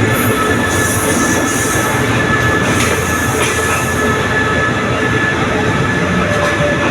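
Diesel locomotive D.5242 and its train of passenger cars moving past at close range: a loud, steady rumble of engine and wheels with a few thin, held squealing tones above it.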